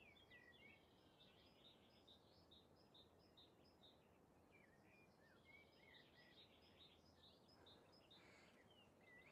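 Near silence with faint birdsong: short chirps and gliding whistled notes repeating throughout.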